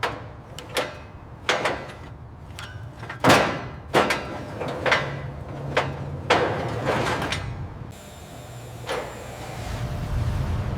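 Irregular series of sharp knocks and bangs from repair work on a car, about a dozen of them, the loudest about three seconds in, several with a short ring after them.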